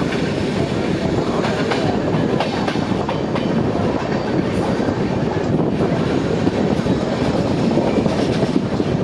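Indian Railways InterCity express passenger train running on the track: a steady, loud rumble of wheels on rails.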